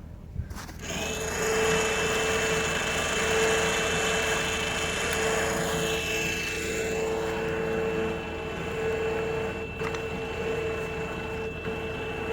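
Electric truck winch motor running steadily with a constant whine, paying cable off the drum; it starts with a click about a second in.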